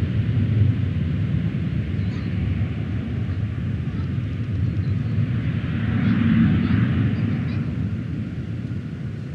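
Jet airliner engines rumbling steadily. The sound swells about six seconds in, then fades toward the end.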